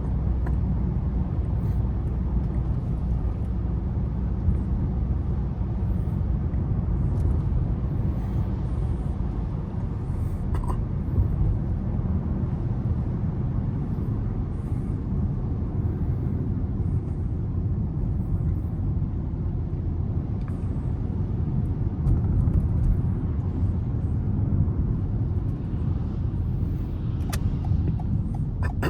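Car being driven through town, heard from the driver's seat: a steady low rumble of engine and tyres on the road, with a few faint clicks.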